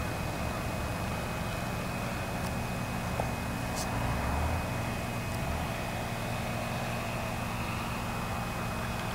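Saito .100 four-stroke glow engine of an RC model plane heard from a distance as a steady drone, over an uneven low rumble.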